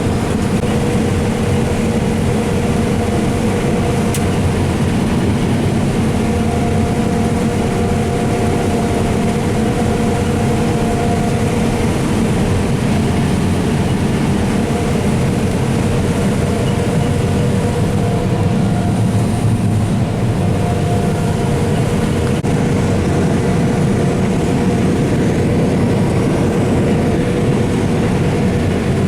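Combine harvester running steadily, a loud, unbroken machine drone with a few held tones.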